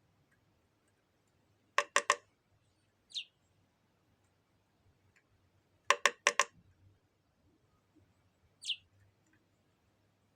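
A small bird pecking at a window pane: two bursts of three quick knocks on the glass, about four seconds apart. Each burst is followed by a short, high chirp that falls in pitch.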